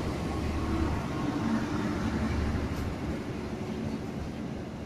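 Diesel-electric locomotive (CC 206) running as it pulls away, a steady low rumble that slowly fades while the passenger cars roll past.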